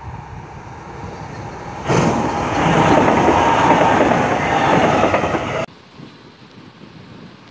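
Three-car electric passenger train passing close by, loud from about two seconds in. The sound cuts off suddenly near the end, leaving faint wind noise.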